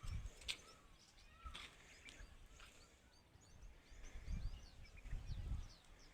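Many small birds chirping in short, quick notes, with bursts of low rumbling noise, strongest about four seconds in.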